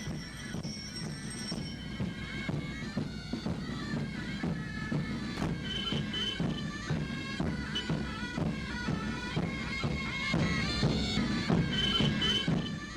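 Bagpipes playing a tune, one sustained note stepping to the next.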